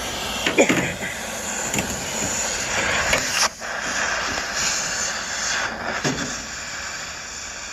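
Cutting torch burning with a steady roaring hiss while scrap metal is cut, with a few sharp knocks in between.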